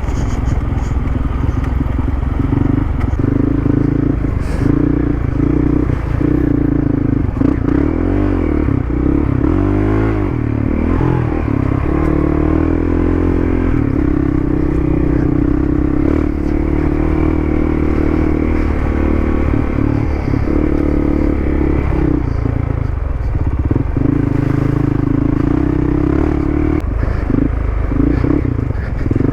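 Dual-sport motorcycle engine running while riding, steady most of the time, its pitch rising and falling with throttle changes about a third of the way in and again near the end.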